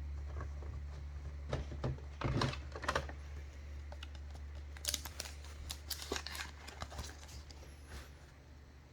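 Trading cards being handled: scattered light clicks, taps and rustles of cards and plastic card sleeves, a few per second in places, over a steady low electrical hum.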